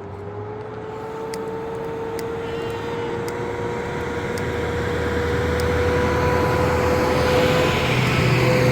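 A machine running, its hum rising in pitch over the first few seconds and then holding steady, while the sound as a whole grows steadily louder.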